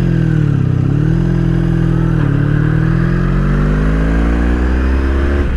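1983 Honda Sabre VF750S's V4 engine accelerating through the gears: its pitch climbs, drops briefly at upshifts shortly after the start and about two seconds in, then rises steadily for the rest of the run.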